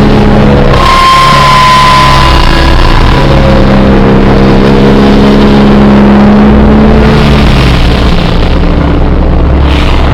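Harsh, heavily distorted noise pinned at full loudness, with droning low tones that cut out and return and a brief whistling tone about a second in.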